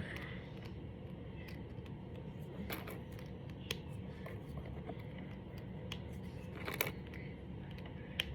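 Brain flakes, small interlocking plastic discs, clicking and rustling as they are handled and pushed together, with a few sharper clicks, the loudest about two-thirds of the way through, over a steady low hum.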